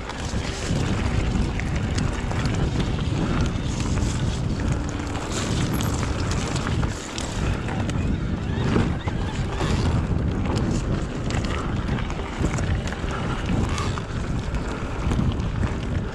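Wind buffeting the microphone while an electric mountain bike rides a rough dirt trail, with tyre noise and a steady stream of small knocks and rattles from the bike.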